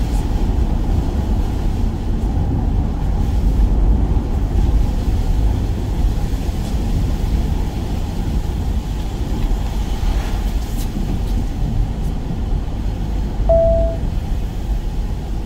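Steady low rumble of a van on the move, heard from inside the cab, with one short beep about 13 seconds in.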